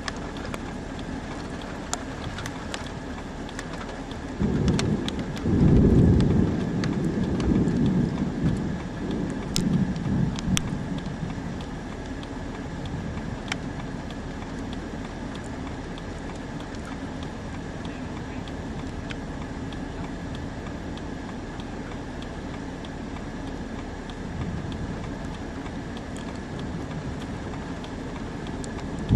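Thunder rumbling, loudest in a long roll from about four and a half to eleven seconds in, over a steady hiss of rain with scattered sharp raindrop ticks.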